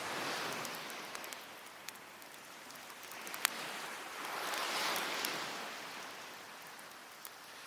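Sea waves washing onto a beach, the surf swelling and fading twice, with the sharp pops and crackles of a wood fire burning through it.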